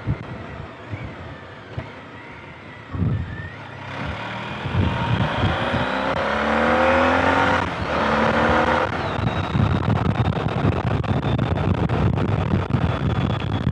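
Motorcycle engine and wind noise heard from the rider's helmet mic. About four seconds in the engine pulls harder and its note rises, breaks briefly near the middle and comes back lower to rise again, as with an upshift, then settles back to a steady run.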